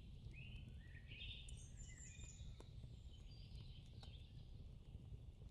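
Near silence with a few faint bird chirps, short and high-pitched, in the first half.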